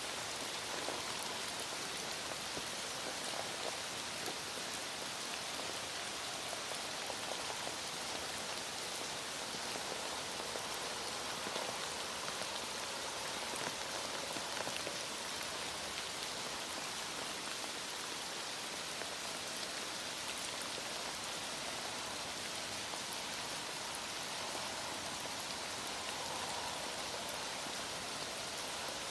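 Heavy rain falling steadily and evenly, a dense hiss of countless drops with no let-up.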